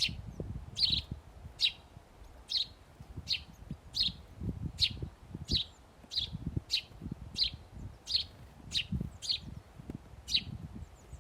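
A small bird at a feeder chirping over and over: short, sharp, high chirps a little faster than one a second, with a low, irregular rumble underneath.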